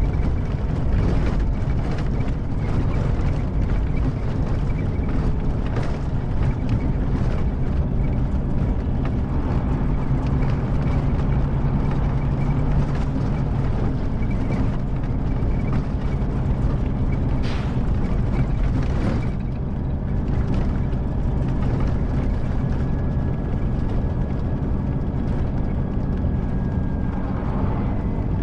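Scania K310IB coach's rear-mounted five-cylinder diesel engine running steadily. Two short rushes of noise come about two-thirds of the way through.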